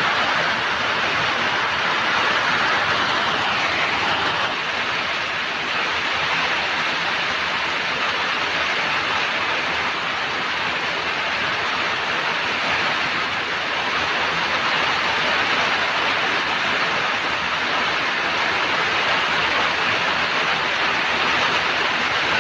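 Steady heavy rain: a dense, even hiss with no single drops or other events standing out.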